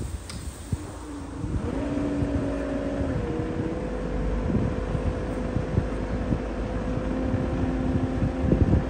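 Gusty wind buffeting the microphone. About one and a half seconds in, a steady engine drone comes in, drops slightly in pitch and then holds.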